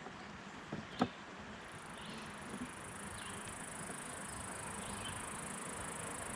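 Steady outdoor insect noise: a high, even chirring of insects that comes in about two seconds in and holds. One sharp click about a second in, with a few faint ticks.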